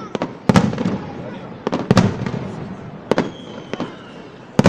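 Aerial fireworks shells bursting: a run of sharp bangs with echoing low tails, the loudest about half a second in, about two seconds in and near the end, with lighter cracks in between. A faint whistle glides downward about three seconds in.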